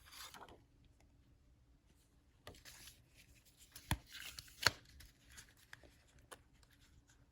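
A makeup palette and its cardboard packaging being handled: soft rustling with two sharp clicks a little under a second apart near the middle.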